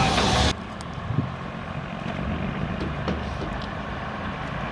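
A brief loud hissing noise cuts off suddenly about half a second in. A steady low engine rumble with a few faint clicks follows.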